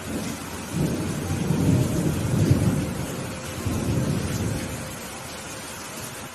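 A roll of thunder over steady rain: the rumble builds about a second in, peaks midway with a second swell, and dies away near the end, while the rain keeps up an even hiss.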